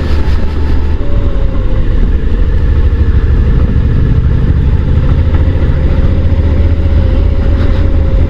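Motorcycle engine running steadily at low road speed, with a heavy low rumble and a faint steady engine note.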